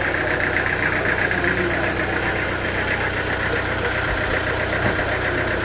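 Sawmill machinery running steadily: a low engine hum under a continuous high buzz with a rapid, even rattle.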